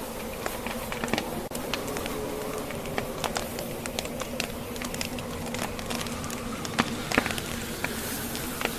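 Wood fire in a fireplace crackling, with irregular sharp pops from the burning logs over a steady rushing wind of a blizzard.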